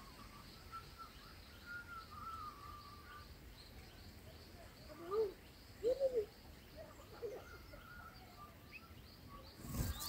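Faint outdoor ambience with birds calling: a thin, drawn-out call early on, then a few short, louder calls about five to seven seconds in.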